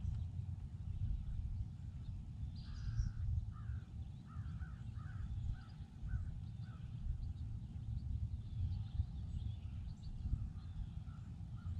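A bird calling in a run of short repeated notes, from about three seconds in to about seven seconds and again near the end, over a steady low rumble.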